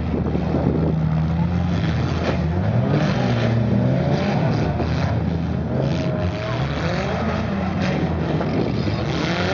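Several four-cylinder demolition derby cars revving their engines together, their pitches rising and falling against one another.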